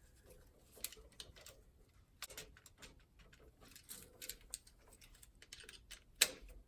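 Faint scattered clicks and taps of the black hot wire being fitted into the left terminal of a floor-box electrical receptacle, with one sharper click about six seconds in.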